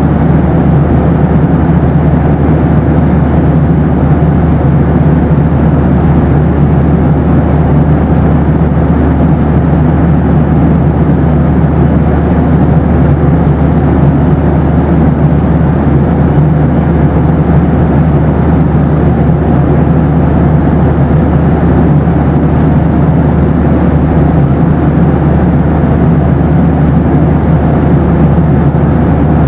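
Boeing 737 cabin noise in flight: a steady, deep rush of engine and airflow noise that does not change, with a faint steady tone riding on it.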